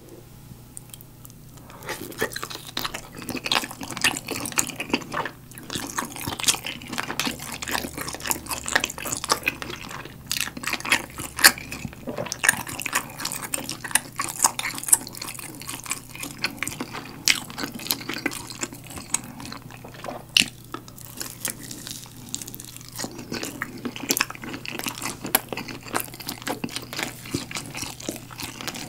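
Close-miked wet, sticky chewing of a galbi-sauce-glazed grilled chicken drumstick: many quick moist clicks and squelches of mouth, meat and sauce, picking up about two seconds in.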